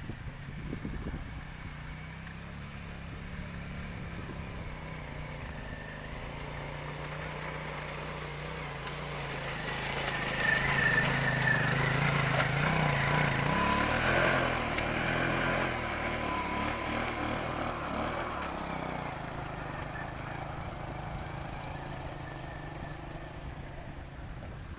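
Viper Active moped engine running, growing louder to a peak about halfway through with some changes in revs, then fading away as it moves off.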